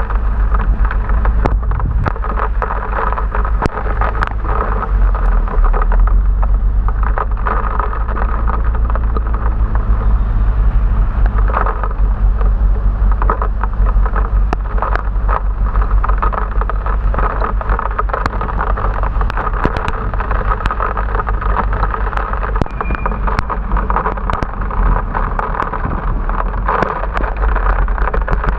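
Riding a motorbike through heavy rain, heard on an action camera: wind rumbling on the microphone over a steady hiss of rain and road spray, with many scattered sharp ticks.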